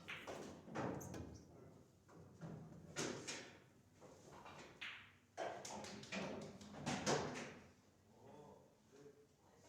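Pool balls clacking and knocking on a pocket-billiards table: about half a dozen sharp strikes spread over several seconds, each ringing briefly.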